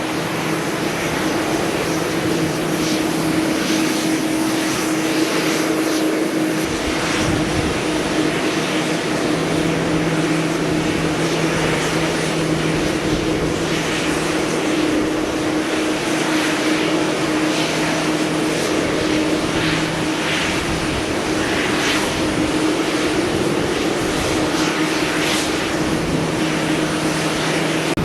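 Airliner jet engines running steadily: an even rushing noise over a steady low hum that holds its pitch.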